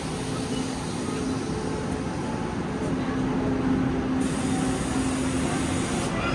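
Carriages of a Taiwan Railways push-pull Tze-Chiang express rolling past as the train slows into the platform: steady wheel-on-rail noise with a low hum underneath.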